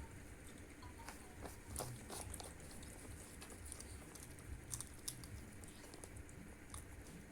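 Faint sounds of people eating fried rice and fried noodles: scattered light clicks of cutlery against plates, with chewing.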